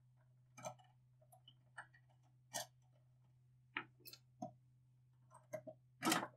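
Irregular clicks and knocks of hard objects being handled, about nine in all with the loudest near the end, over a faint steady low hum.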